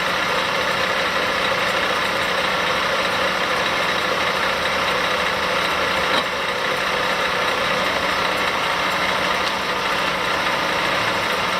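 Comet 2 HP vertical milling machine's step-pulley head running steadily at high spindle speed in high range: an even machine hum with a hiss on top and a light click about six seconds in.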